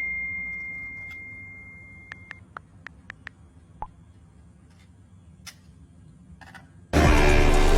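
A steady high-pitched electronic beep for about two and a half seconds, then a quick run of light clicks over a faint low hum.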